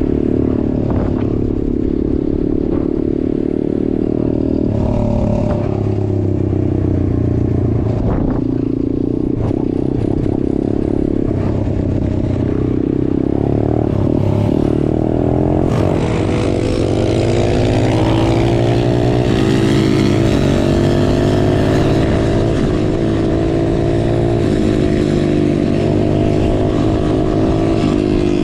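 Straight-piped small-displacement motorcycle engine running under way, its pitch changing with gear and throttle; about halfway through the revs climb and then hold higher.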